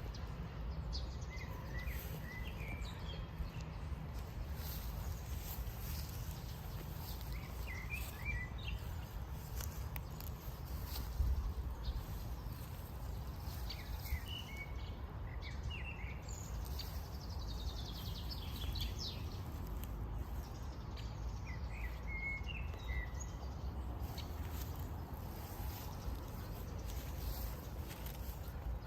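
Outdoor ambience: a steady low rumble with small birds chirping in short bursts every few seconds, including one falling run of notes.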